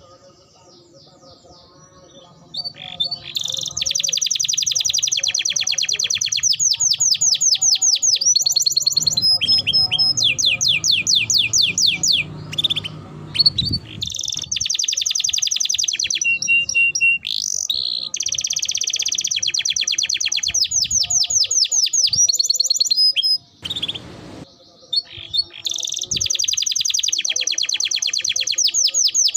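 Domestic canary singing: long, fast rolling trills alternating with chirps and short whistles. The song pauses twice, at the very start and about two-thirds of the way through.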